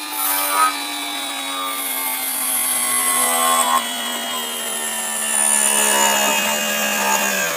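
Lathe motor running with a cutting, rubbing noise over it, its pitch sinking slowly and steadily, played backwards.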